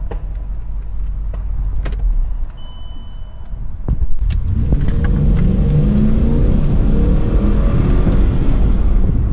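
Car engine and road rumble, with the car pulling away and accelerating from about four seconds in, its engine pitch rising steadily.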